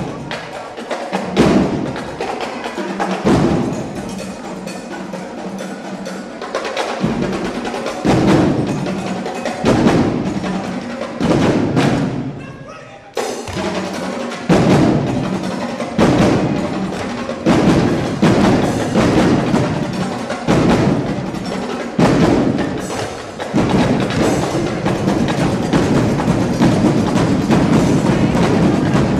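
Percussion-driven music made of rapid, sharp rhythmic strikes, dipping briefly about twelve seconds in before the hits pick up again.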